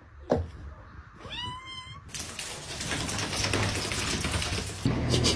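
A brief thump, then about a second in a cat meows once: a single call that rises and then holds for under a second.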